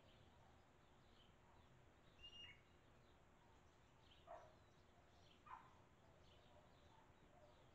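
Faint scattered bird chirps over low steady background noise, with a short whistled note about two seconds in and two louder, short falling calls a little after four and five seconds.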